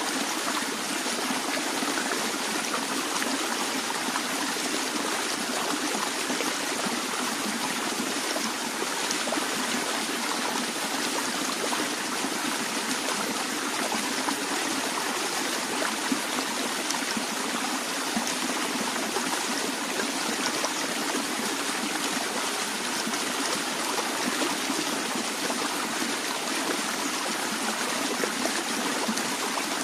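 Steady flow of a stream or brook running over rocks, an even splashing and burbling.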